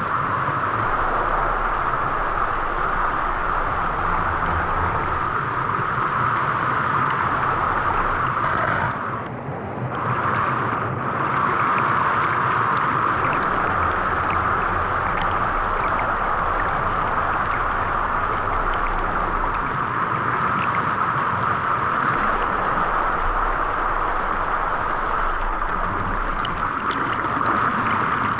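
Waterfall: a steady rush of falling water, dipping briefly about nine seconds in.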